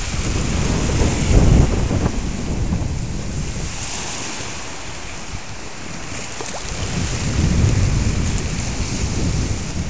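Strong gusty wind of about 25 mph buffeting the microphone in low rumbling gusts, with choppy lake water splashing around a floating pier. The gusts ease off about halfway through and pick up again.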